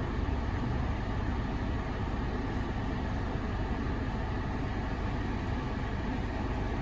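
Steady low hum inside the cabin of a 2018 Honda Accord with its 2.0 L four-cylinder engine idling and the climate-control fan running.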